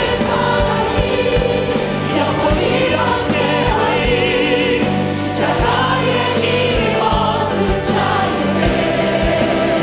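Choir singing a Christian hymn with band accompaniment, over a steady drum beat.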